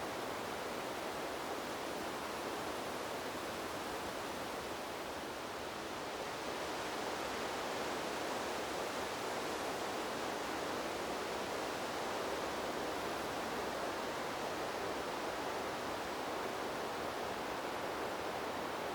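Steady rushing of wind through tree leaves, an even hiss that swells slightly about six seconds in.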